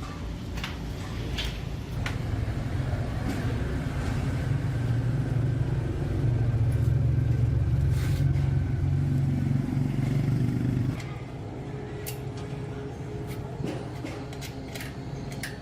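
A motor running with a low, steady hum that grows louder, then cuts off suddenly about eleven seconds in, followed by a few light clicks.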